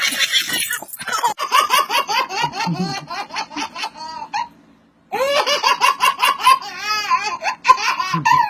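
A baby laughing hard, in rapid high-pitched giggles, in two long bouts with a short pause about halfway through.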